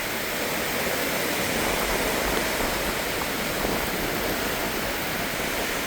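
Wind-driven thunderstorm rain and gusting wind making a steady, even hiss.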